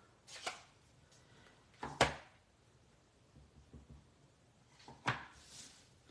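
Sharp taps and clicks of stamping supplies handled on a desk. There is one soon after the start, a louder knock about two seconds in, a few light ticks, and another knock about five seconds in followed by a brief rustle.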